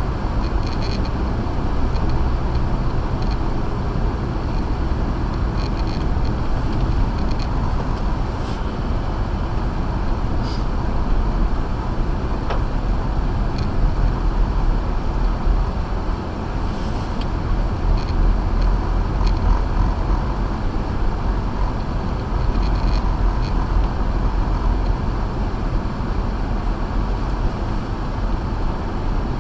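Acura MDX driving on a snow-covered road on Sumitomo Ice Edge winter tyres: a steady, low rumble of tyre and road noise with the engine running under it.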